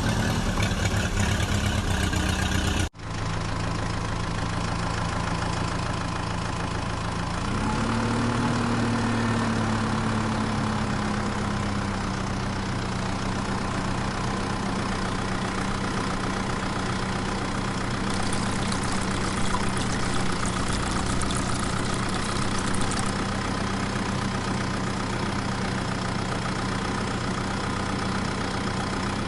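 An engine running steadily at idle. About seven seconds in it briefly rises in pitch, as if revved, then settles back; a different sound before it cuts off abruptly about three seconds in.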